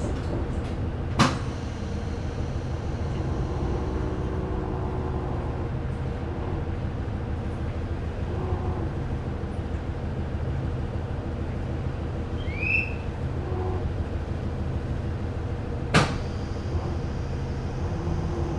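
KiHa 30 diesel railcar's DMH17 engine idling steadily while the train stands at a station. Two sharp bangs about fifteen seconds apart are the conductor's door switch. It clacks without this car's doors opening, because the platform is too short for the third car.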